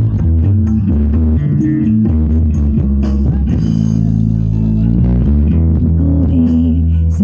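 Music with a strong bass guitar line played loud through a sound system, most of its weight in the low bass.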